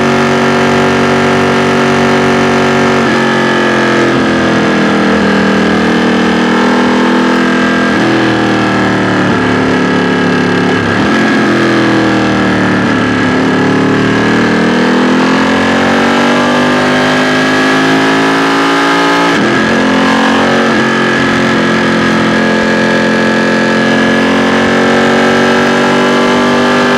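2016 Ducati XDiavel S's 1262 cc V-twin engine and exhaust heard from the rider's seat while riding. The pitch steps at shift points about 3, 8 and 19 seconds in, sinks as the bike slows about 10 seconds in, then rises again under throttle.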